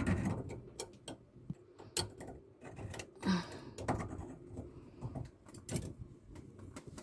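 Scattered small clicks and taps at irregular intervals as a hand tool works the dishwasher drain hose loose from its connection under the sink.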